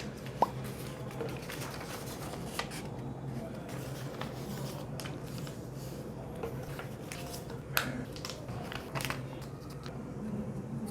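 Paper rustling and creasing as a paper boat is folded by hand: scattered soft crinkles and small taps over a steady low hum.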